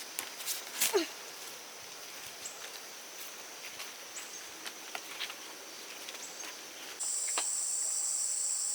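Steady high insect drone, with a second, louder insect chorus starting abruptly about seven seconds in; scattered light clicks and rustles over it.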